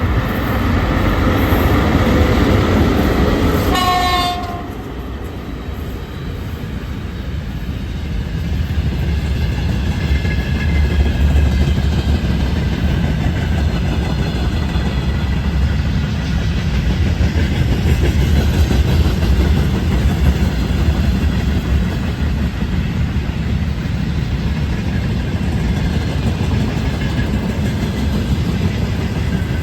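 Air horn of a VL80S electric locomotive sounding for about four seconds, then cutting off. A freight train follows, its wheels giving a steady rolling rumble on the rails as the wagons pass.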